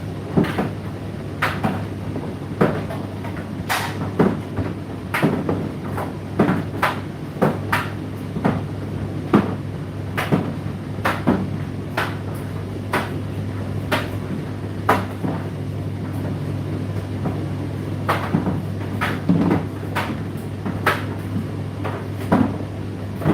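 Indesit IDC8T3 condenser tumble dryer running mid-cycle: a steady motor hum, with irregular knocks and clicks, about one or two a second, as the load tumbles in the drum.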